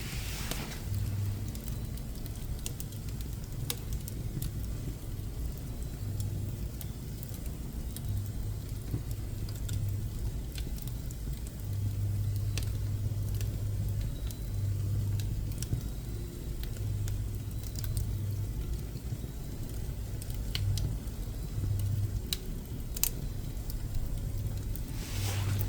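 Pine and woodworking offcuts burning in a wood-burning stove, with scattered sharp crackles and pops over a low, steady rumble.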